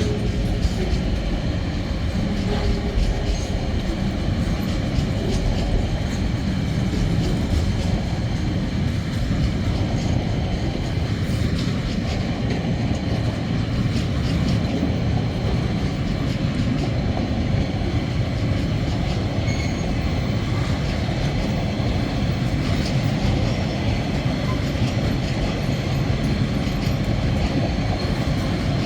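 Freight train rolling steadily past on the rails, a continuous rumble of wagons and wheels on track.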